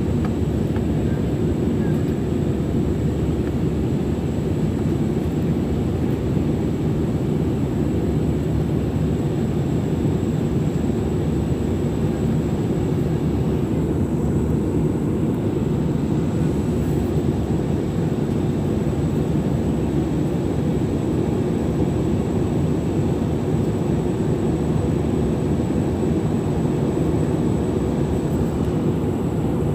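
Steady low rumble of airliner jet engines, with no clear rise or fall.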